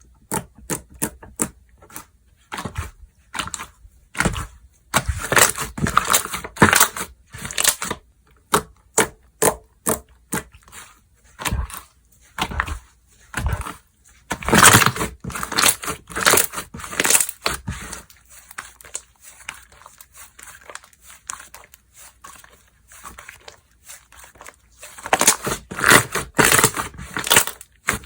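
Slime being squeezed, poked and stretched by hand, giving sharp clicks and crackling pops, with three denser spells of crackling.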